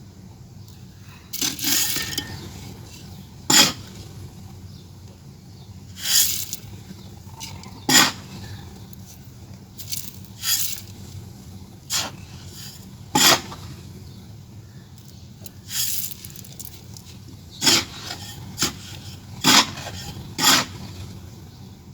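Hard clay or sand pieces being knocked and scraped: about a dozen sharp clacks, one to two seconds apart, a few drawn out into short gritty scrapes.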